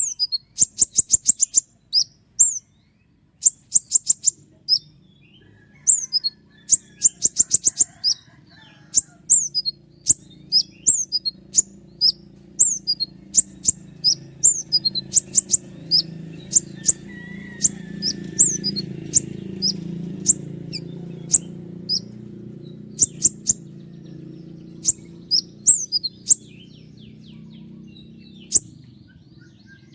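A konin (kolibri ninja), a small sunbird, singing high, sharp notes: fast rattling rolls of repeated notes broken up by single quick downward strokes. A faint low rumble swells in the background around the middle.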